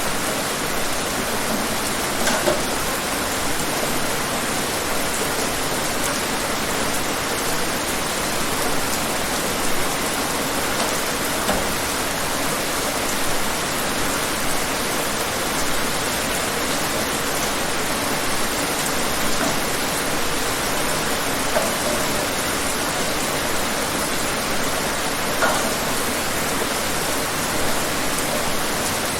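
Steady rain falling, an even hiss with a few faint separate drops standing out now and then.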